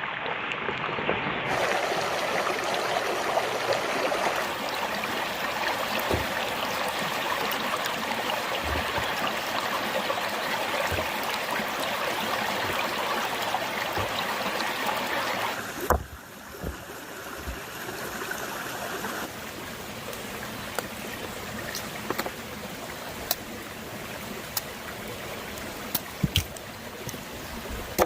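Running water of a stream, a steady rush. About halfway through it drops abruptly to a quieter background, with scattered sharp clicks.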